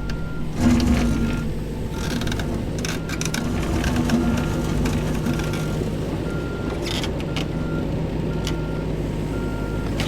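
Diesel engine of a snow-clearing machine, a Cat skid steer or backhoe, running steadily while its reversing alarm beeps about once every three-quarters of a second. A few clanks come through.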